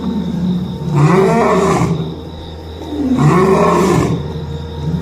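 Lion roaring: a series of deep roars about a second long each, one every two seconds or so, each rising then falling in pitch.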